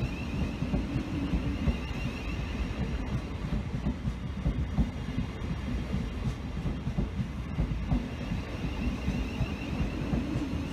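A train running on the rails: a steady low rumble with rapid irregular knocks, and a faint wavering high whine near the start and again near the end.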